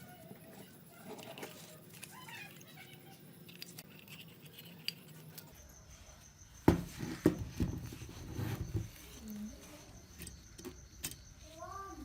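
Faint clicks and knocks of small hard objects being handled, loudest in a cluster from about halfway through, with a few short rising chirps near the end.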